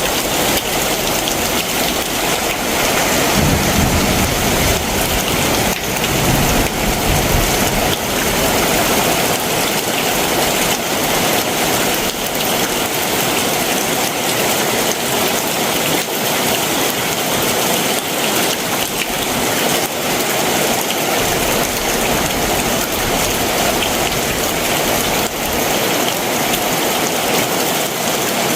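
Heavy summer monsoon downpour, a dense, steady hiss of rain falling on surfaces, with a low rumble for a few seconds starting about three seconds in.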